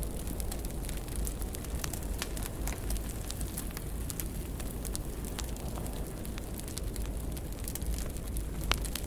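Wood fire in a fireplace crackling, with many small irregular pops over a steady low rumble of the flames; one louder pop near the end.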